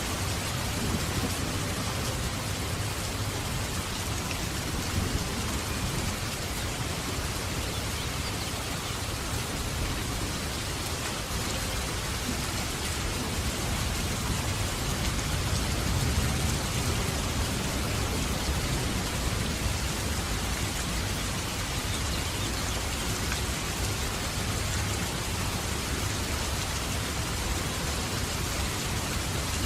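Steady rain falling, with a low rumble of thunder swelling about halfway through.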